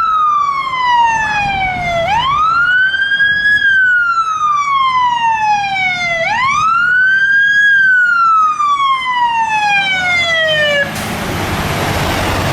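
Fire truck siren wailing in a slow cycle, each wail rising quickly and then falling slowly over about four seconds, three times over. Just before the end the siren cuts off and a steady rushing noise takes over.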